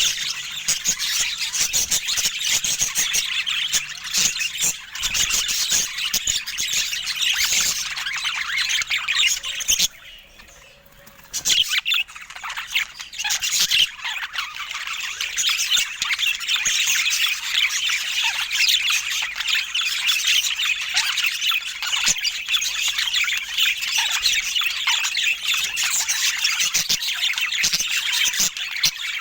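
Budgerigars chattering and warbling without a break, a dense run of rapid chirps and squawks, with a short lull about ten seconds in.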